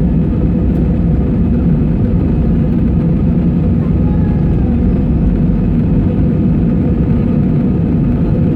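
Airbus A320 jet engines and airflow heard inside the cabin from a window seat: a loud, steady rumble with a faint high hum on top.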